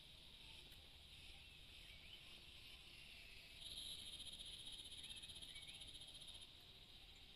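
Faint forest ambience with a steady high insect hiss. An animal's rapid pulsing trill sounds for about three seconds in the middle, and there are a few short chirps.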